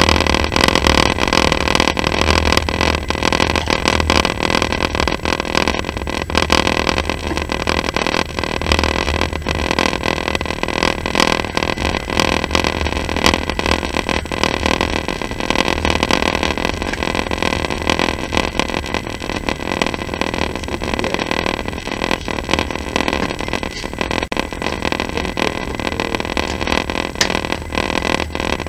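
Passenger train running, heard from inside the carriage: a steady low rumble of wheels on rails with a dense, continuous clatter.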